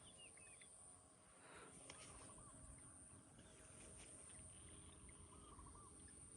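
Near silence with a bird's faint, short chirps now and then.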